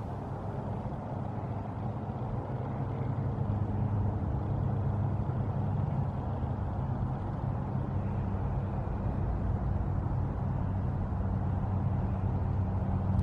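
Steady low engine rumble with a constant hum, growing louder over the first few seconds and then holding.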